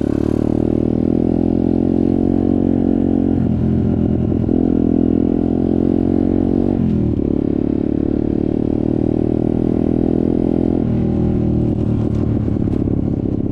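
Off-road motorcycle engine running under way, its pitch shifting up and down several times as the throttle and gears change.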